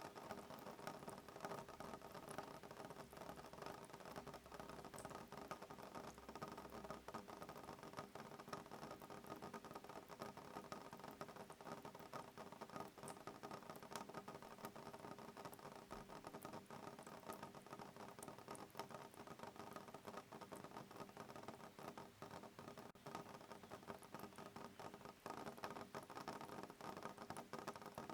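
Soft rain pattering on a window pane: a quiet, steady stream of fine drop ticks with no thunder.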